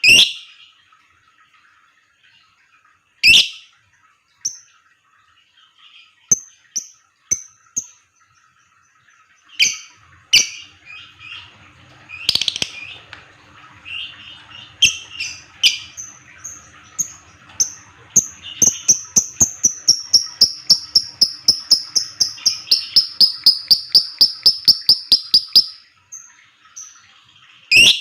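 Lovebird calling with scattered short, sharp high chirps and ticks. About 18 s in it breaks into a long, rapid trill (the 'ngekek panjang') of about four to five calls a second, falling slightly in pitch, which cuts off suddenly a few seconds before the end.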